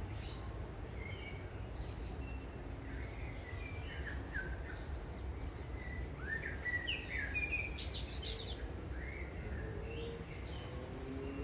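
Birds chirping, many short calls, over a steady low background rumble; a faint rising drone comes in near the end.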